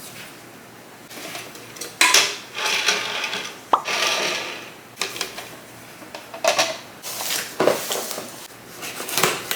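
Plastic containers and food items being handled and set down, with sharp clacks a few times and rustling between.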